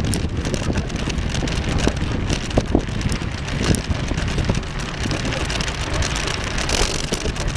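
Wind buffeting the microphone: a steady rumbling rush with scattered small clicks and crackles throughout.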